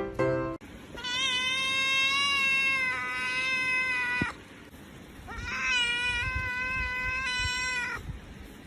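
An animal crying out in two long, drawn-out calls, each about three seconds, the second starting about five seconds in.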